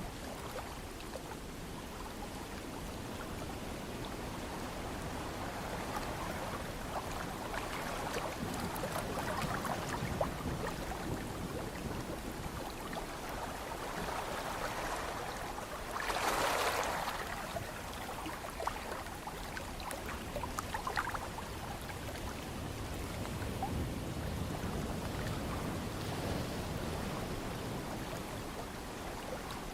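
Ocean surf washing in as a steady hiss that slowly swells and ebbs, with one louder wave surging about halfway through.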